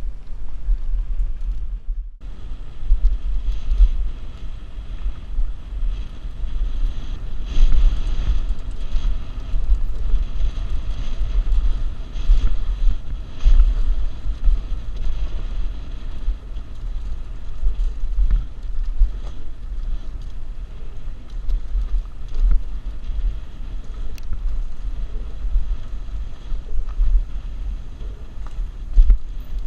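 Wind buffeting a helmet-mounted action camera's microphone as a mountain bike rides fast down a trail, a heavy low rumble with scattered clicks and rattles from the bike over rough ground. The sound cuts out briefly about two seconds in, then resumes.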